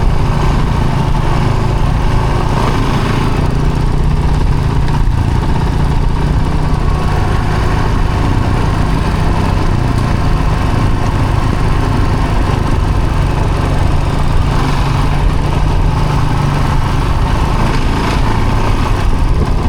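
Off-road vehicle's engine running steadily while driving, heard on board.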